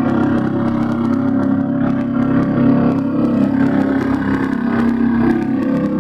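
Small bumper-boat engines running steadily, with a faint clatter of knocks over them.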